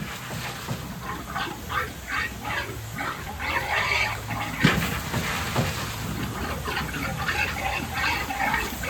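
Steam locomotive on a steam test, giving a run of short, irregular puffs of steam several times a second, with one sharper knock about halfway through.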